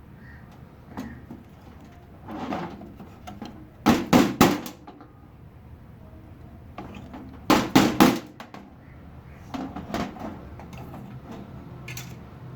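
Sharp knocks and clatter of hard objects being handled: two loud bursts of about three quick knocks each, roughly four seconds apart, with softer knocks around them.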